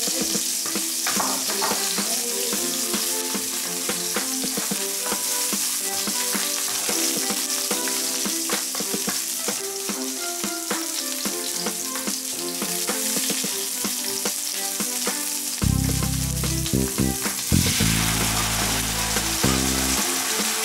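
Sliced onion sizzling in hot olive oil in a frying pan, with a ladle clicking and scraping as it stirs. Near the end come a few louder low thumps, and the sizzle thins out.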